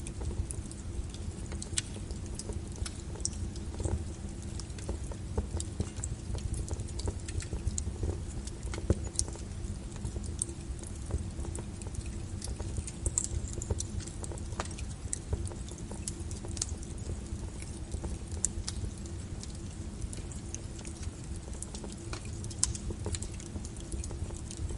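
Wood fire burning in a fireplace, a steady low rumble of flames with frequent small crackles and pops scattered irregularly throughout.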